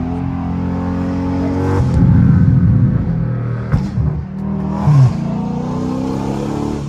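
Straight-piped 392 HEMI V8 of a Dodge Charger Scat Pack running under a downshift meant to make the exhaust pop: a burst of exhaust crackle about two seconds in, then a few sharp pops between about four and five seconds. The pops are not very strong.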